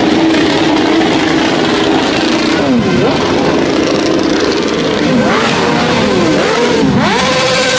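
High-performance car engines revving: several sharp throttle blips that dip and rise in pitch, over a steady engine drone that settles to a higher steady note near the end.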